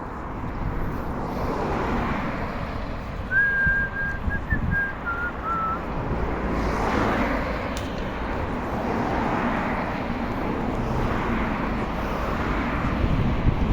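Wind rush and road-traffic noise on a bicycle ride, with a short whistled phrase about three seconds in: a held note, then a few notes stepping down in pitch.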